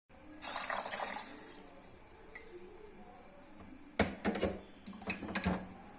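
Liquid pours or splashes into a cooking pot for about a second, then a cluster of sharp clinks and knocks of a utensil against the pot comes near the end.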